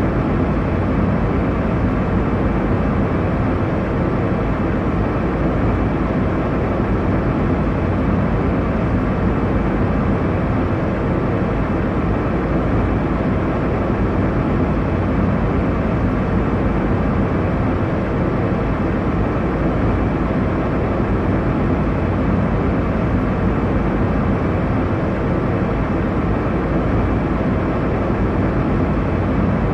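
Airliner cabin noise: a steady, even low rumble that does not change.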